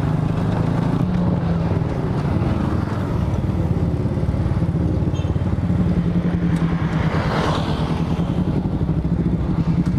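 Honda Supra Fit's small single-cylinder four-stroke engine running steadily as the motorcycle is ridden. About seven seconds in, a brief rushing swell of noise passes over it.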